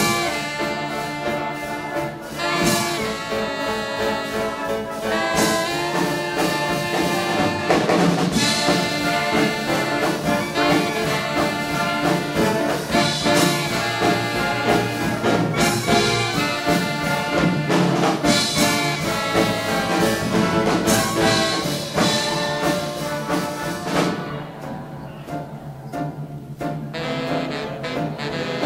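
Big band dance orchestra with trombones, trumpets and saxophones playing hot swing-era jazz. About four-fifths of the way through, the band drops to a quieter, softer passage.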